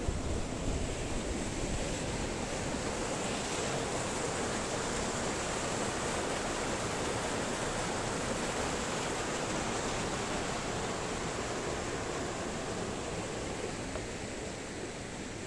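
Waterfall rushing steadily, a dense even wash of falling water that eases slightly near the end.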